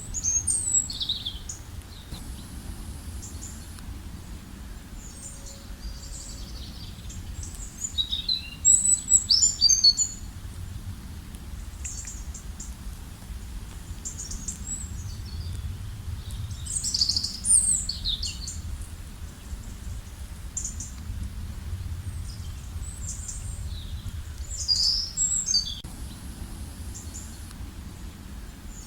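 Wild birds singing in short bursts of chirps and trills every few seconds, loudest about eight to ten seconds in, over a steady low background rumble.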